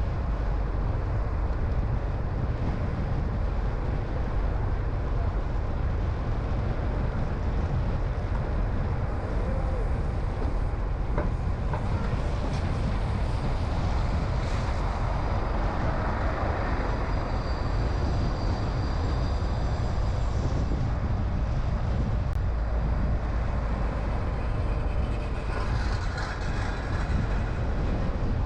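Steady road and wind noise of a car driving, mostly a deep rumble. A rush of noise swells briefly about halfway through and again near the end.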